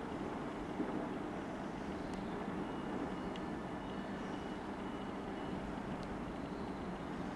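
Freight train behind an EMD Class 66 diesel locomotive running steadily: a constant low engine hum with rolling noise, and a faint high squeal through the middle.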